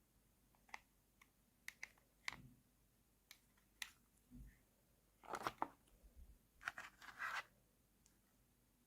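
Quiet handling of a toy and its packaging: scattered light clicks and taps, then two short bursts of rustling and tearing about halfway through and again a little later.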